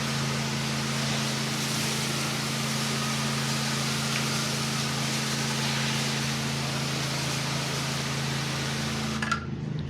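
Pressure-washer spray hissing steadily as the wand's water jet rinses a door, over the steady hum of the pressure-washer engine. Near the end the spray cuts off and only the engine hum remains.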